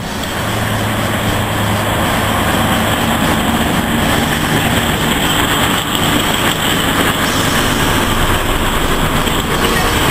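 Small locomotive and a wooden passenger coach rolling past close by along the platform: a steady, loud rumble of wheels on rail with a low engine hum.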